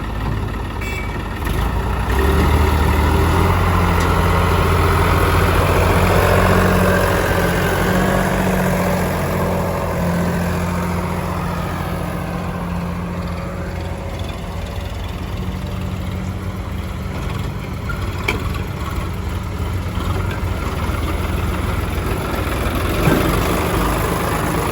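Heavy diesel engine running steadily under load, growing louder about two seconds in and easing off again around halfway through.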